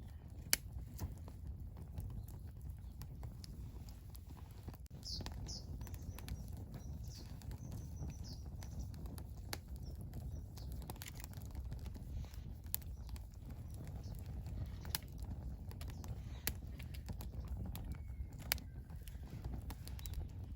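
Wood campfire crackling, with scattered sharp pops at irregular intervals over a steady low rumble.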